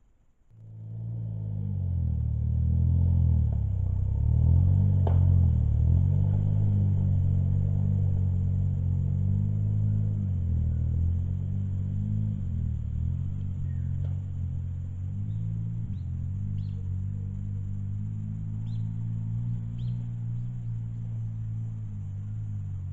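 Suzuki Jimny JA12 engine running with a deep low note, starting abruptly about half a second in; its pitch wavers for the first few seconds, then settles into a steady run that eases slightly in level. A few faint high chirps sound in the second half.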